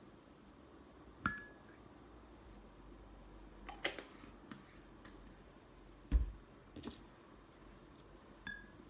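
A few scattered light knocks and clicks of small objects being handled, the first followed by a brief high ring, over quiet room tone.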